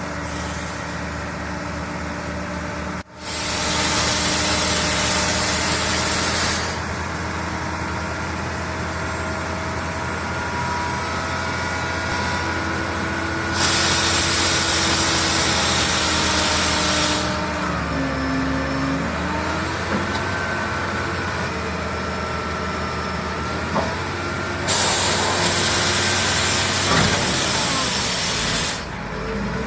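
A heavy diesel engine running steadily, broken by three spells of loud hissing a few seconds each. Past the middle, the engine pitch dips and comes back up.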